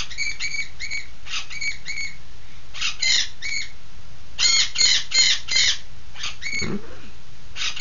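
Pet bird squawking: a string of short, shrill calls in quick runs of two to four, the loudest run about four and a half to six seconds in.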